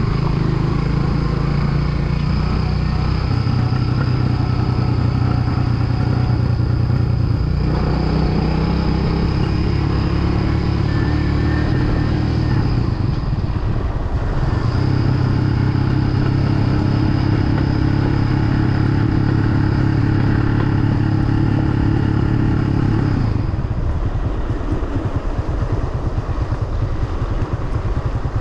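Kawasaki W175's single-cylinder four-stroke engine running while riding downhill, its note stepping to new steady pitches a few times. Near the end the note drops and quietens as the throttle eases off.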